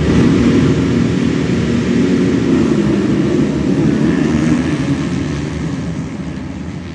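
Motocross bike engines running hard on the track, a loud steady mechanical drone that begins to fade near the end.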